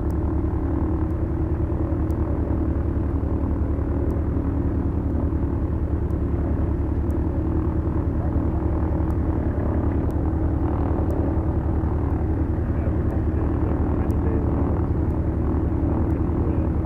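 Both engines of a Beechcraft Duchess twin, four-cylinder Lycoming piston engines, running steadily at low taxi power with a deep, even propeller drone.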